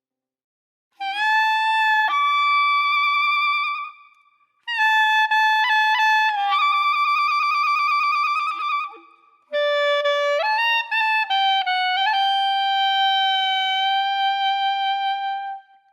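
Background music: a solo wind instrument plays three slow phrases of long held notes with vibrato, each separated by a short pause.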